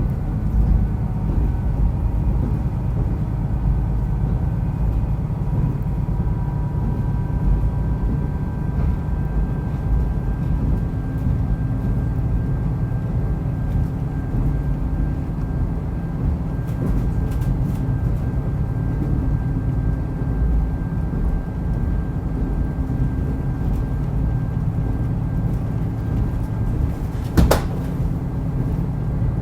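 Diesel railcar running on the line, heard from inside the car: a steady low rumble of engine and wheels with faint steady tones above it, and one sharp knock near the end.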